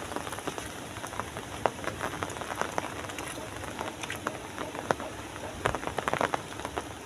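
Rain falling steadily, an even hiss with irregular sharp taps of single heavy drops close by, coming thicker about six seconds in.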